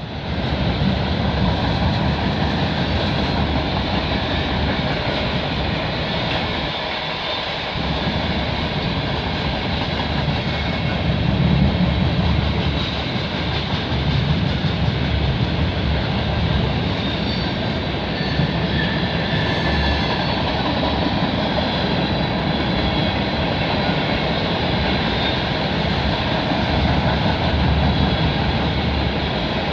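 CN freight train's cars rolling past, with a steady rumble and rattle of steel wheels on the rails.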